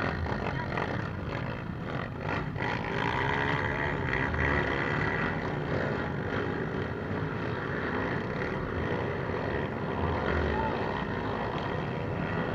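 Off-road trail motorcycle engines running, their pitch rising and falling as they rev.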